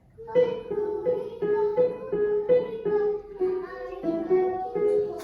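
A plucked string instrument playing a melody in single picked notes, about three a second.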